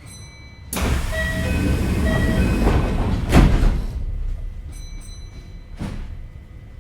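Kintetsu 5800 series train's sliding doors closing: a short high chime, then a sudden loud rush of air from the door mechanism lasting about three seconds with a thud about halfway through. A second short chime and a softer knock follow near the end.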